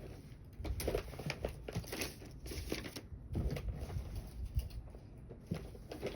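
Irregular rustling, crinkling and light knocks of objects being handled and rummaged through by hand.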